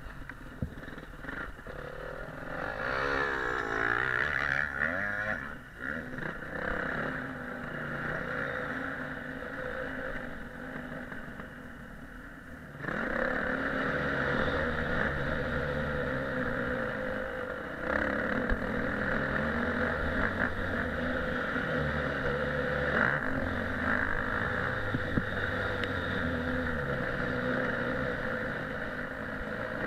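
Motocross motorcycle engine running and revving up and down through the gears while being ridden, heard through an action camera's microphone. It gets clearly louder about thirteen seconds in.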